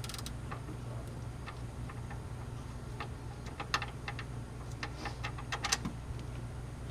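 Irregular light clicks, bunched in a few quick groups, from a socket wrench working the oil pan drain plug loose, over a steady low hum.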